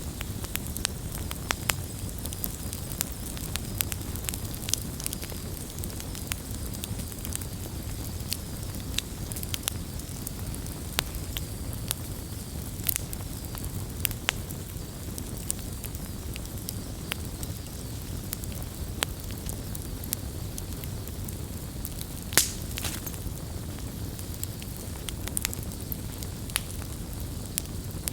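Wood campfire burning steadily with a low rumble of flames and frequent irregular crackles and pops. The loudest pop comes about two-thirds of the way through.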